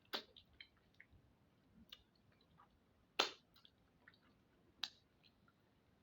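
Close eating sounds of a person eating akpu with onugbu soup and roasted fish: scattered wet mouth smacks and sharp clicks while chewing. About half a dozen stand out, the loudest just past the middle.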